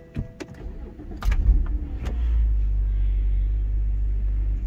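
BMW 128i's 3.0-litre straight-six starting on the push button about a second in, flaring briefly, then settling into a steady idle, heard from inside the cabin.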